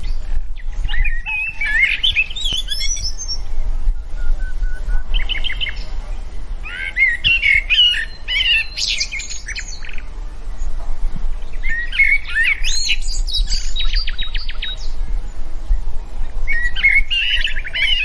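Birds chirping and calling in repeated bursts of quick warbling and trilled notes, over a steady low hum.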